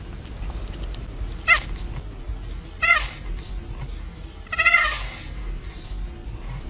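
A cat meowing three times, about a second and a half apart, the last call the longest and loudest, over a steady low rumble.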